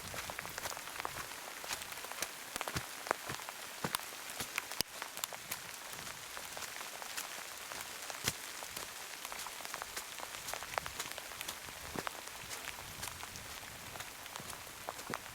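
Heavy rain falling steadily: a constant hiss with many separate drops ticking sharply at irregular moments.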